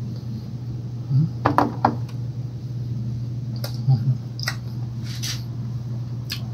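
A person chewing a mouthful of burger, with short mouth clicks and smacks scattered through, over a steady low hum.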